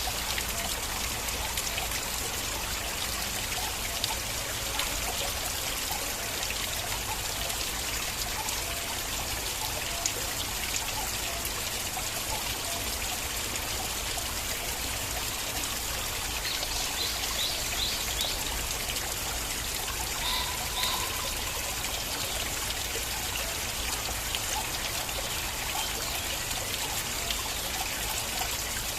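Stream water flowing and trickling steadily, with the odd brief, sharper drip or splash.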